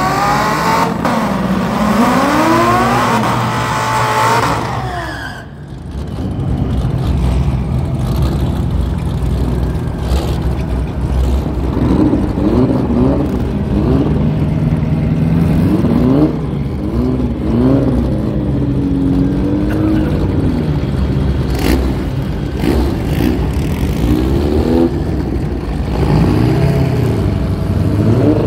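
Drag-racing car engines: one accelerating hard with its pitch climbing several times over the first few seconds, then dropping away, followed by engines revving up and down.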